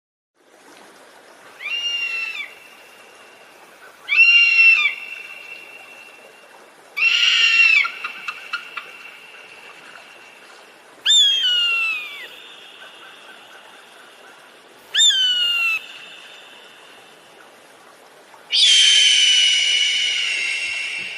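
An animal calling six times with high-pitched calls, each one arching and falling in pitch. The last call, near the end, is longer and louder.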